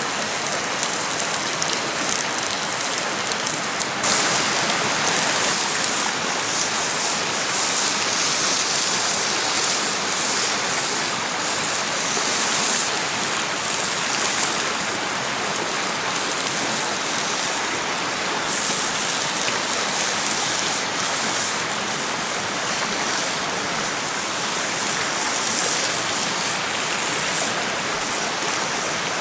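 Rain falling steadily, a continuous even hiss of drops on surfaces that swells slightly now and then.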